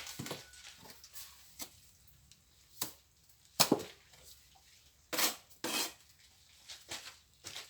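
Plastering trowel scraping and clinking against hard surfaces in separate sharp strokes, about six of them with short pauses between.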